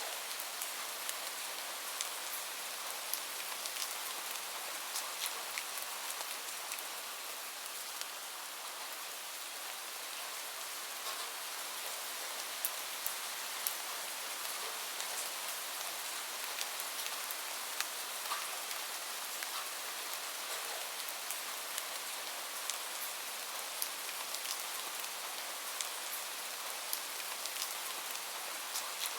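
Steady rain: an even hiss with many small raindrop taps scattered through it.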